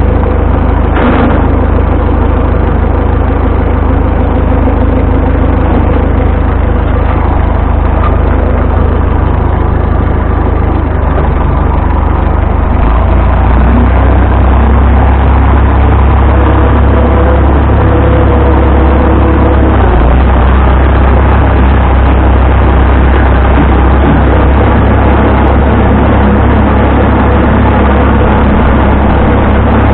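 Vintage farm tractor engine running steadily with a heavy, low drone that grows louder about 13 seconds in.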